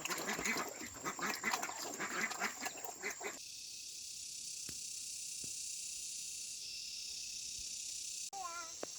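A dense jumble of short animal calls that stops abruptly about three seconds in, giving way to a steady high hiss; near the end a single curving animal call sounds, like a cat's meow.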